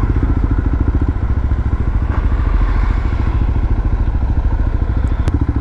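Suzuki DR650's single-cylinder engine running steadily while riding, with a fast, even beat of firing pulses.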